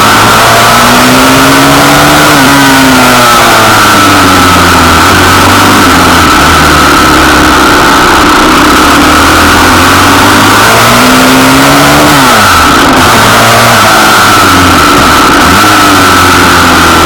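Pitbike's small single-cylinder engine running hard under way, revving up and dropping back about two seconds in and again about eleven seconds in. A steady high whine runs over a loud, noisy roar.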